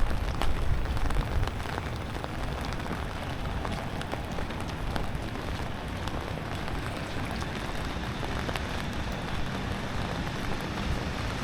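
Steady rain falling on a wet city street, with many small drops ticking sharply throughout. A low rumble underneath is stronger at the start and then settles.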